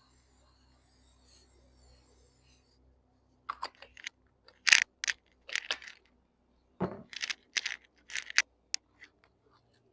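Handling noise: after a few seconds of near silence, a run of irregular sharp clicks and crinkling rustles, the loudest about a second later and again near the middle.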